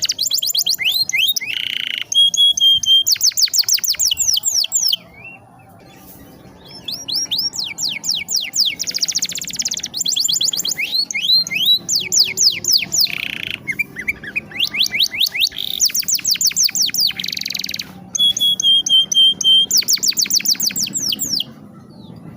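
Domestic canary singing: long fast trills of rapidly falling notes, broken by a few short held whistled notes. There is a pause of about a second and a half about five seconds in.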